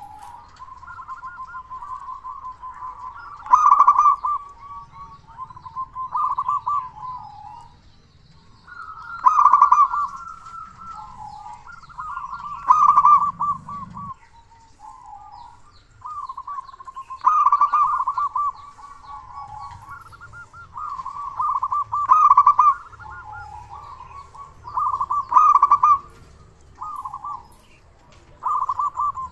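Zebra dove (perkutut) singing its rhythmic cooing song, phrase after phrase, with a louder phrase every three to five seconds and softer cooing in between.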